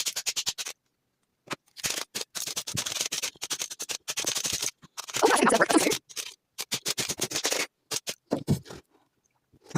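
Rapid scratching and clicking of small plastic parts being handled, in choppy bursts that stop and start abruptly.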